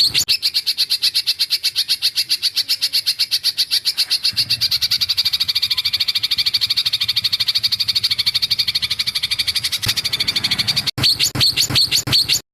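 Recorded songbird trill used as master song for training white-rumped shamas: a long, rapid, even run of sharp high notes, broken briefly near the end by a short gap and a few louder notes before it cuts off.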